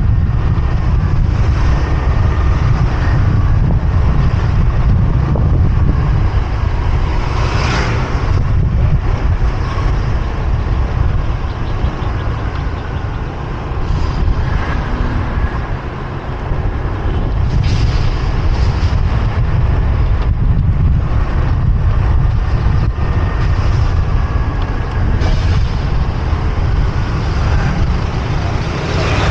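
Motorbike riding in city traffic: wind rumbling on the microphone over the steady hum of engines and traffic, with a few brief sharp sounds.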